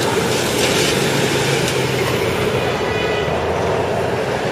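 Steady city vehicle noise, a loud continuous rumble of passing traffic.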